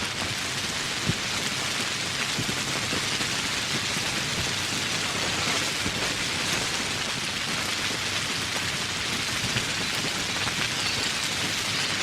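Steady rainfall, an even hiss with many small drops hitting surfaces.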